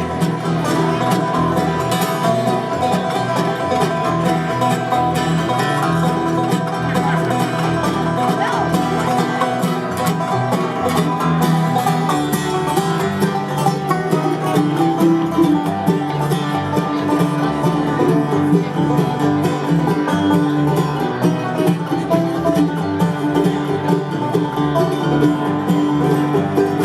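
Live bluegrass band playing an instrumental passage, plucked strings picking a steady, continuous rhythm.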